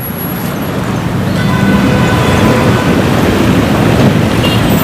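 Road traffic: a motor vehicle's engine and road noise, a low rumble that grows steadily louder as it approaches.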